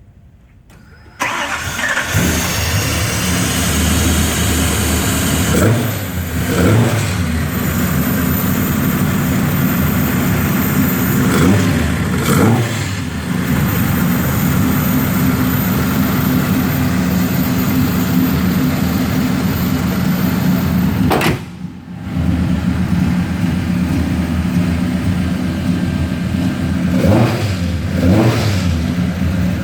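Ford Coyote 5.0 V8 with Borla eight-stack injection starting about a second in, then idling through a custom stainless exhaust with Borla mufflers. It is revved in short pairs of blips three times. The sound drops out briefly about two-thirds of the way through, then picks up again.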